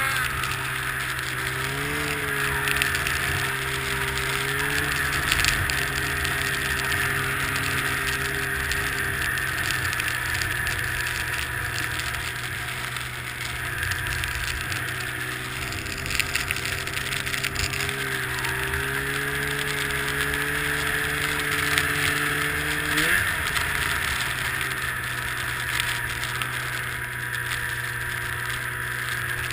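Snowmobile engine running at a steady pace, its pitch stepping up slightly about two seconds in and jumping in a quick rev about three quarters of the way through, over a constant rushing noise.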